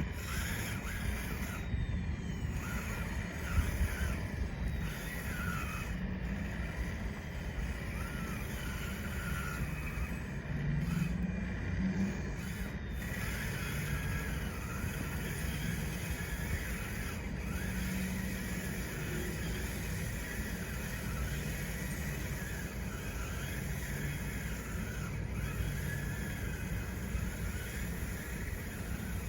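Small electric drive motors and gearboxes of a radio-controlled bulldozer running, their whine rising and falling in pitch over a low rumble.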